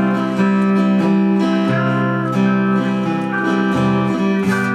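Acoustic guitar being strummed, chords ringing on one after another.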